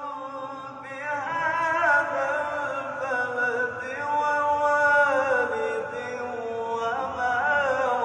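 A solo male voice chanting in the melismatic Arabic religious style of Quran recitation, holding long ornamented notes that bend and slide down in pitch, growing louder about a second in.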